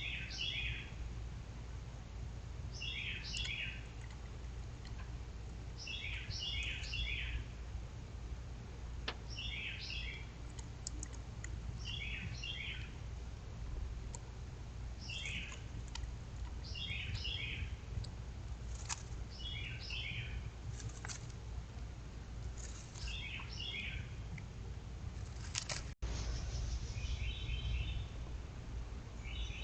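A small bird repeating a short chirping phrase of three or four quick notes every two to three seconds, over a steady low hum. The sound cuts out for an instant near the end.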